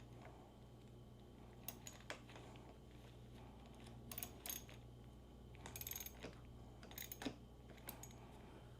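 Scattered light metallic clicks and clinks of hand tools and small bike parts being handled during motorcycle reassembly, some in quick clusters, over a steady low hum.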